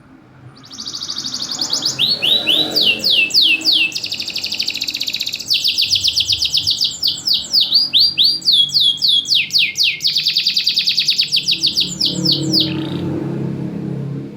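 Domestic canary singing a long, loud song of rapid trills and fast sweeping notes. It starts about half a second in and stops suddenly near the end.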